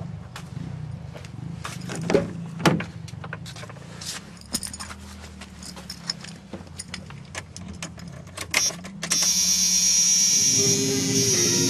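Keys jangling and clicking as the 1996 Dodge Ram 1500's key is found and put in the ignition. About nine seconds in, a loud steady electronic sound comes on suddenly as the ignition is switched on. Near the end the engine begins to crank.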